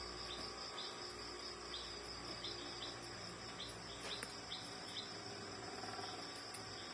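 Faint background insects: a steady high-pitched drone with short chirps repeating under a second apart, typical of crickets.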